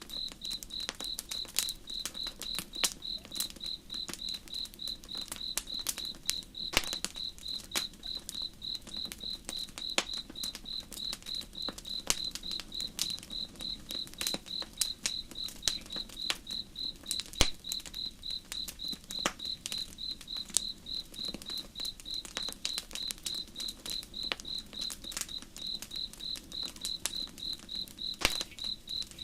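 Cricket chirping steadily at about three chirps a second, with a campfire crackling in irregular sharp snaps and pops, over a faint low rush of flowing river water.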